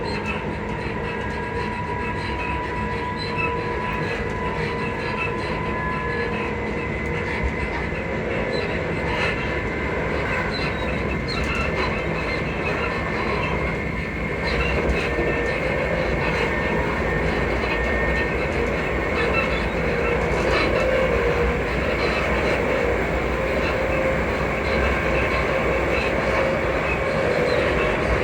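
Class 334 Juniper electric multiple unit heard from inside the carriage while running: a steady rumble from the wheels and running gear, with thin, steady high squeaking tones from the suspension and a few faint clicks. The rumble grows a little louder about halfway through.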